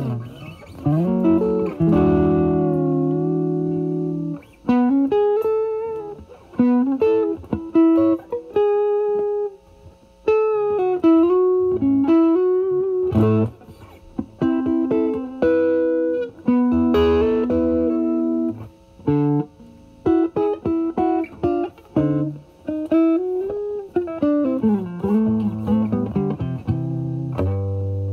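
Overdriven electric guitar: a Stratocaster through a Vertex Steel String Clean Drive pedal, gain at 10, into a Valvestate amp's drive channel. It plays bluesy lead phrases of single notes with string bends, with chords held for a second or two near the start and in the middle, and short gaps between phrases.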